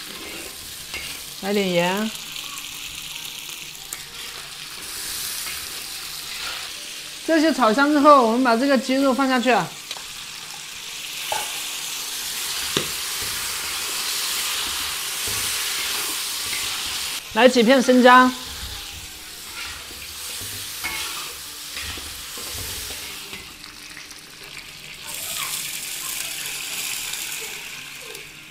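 Chicken pieces frying in hot oil in a large wok, sizzling steadily as a metal spatula stirs and scrapes them around the pan; near the end water is poured into the wok. Three times a short wavering, voice-like call rises over the sizzle, loudest about eight seconds in.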